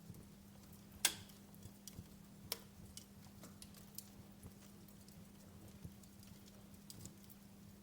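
Wood fire crackling in a fireplace: irregular sharp pops and snaps from the burning logs, the loudest about a second in, over a faint steady hiss.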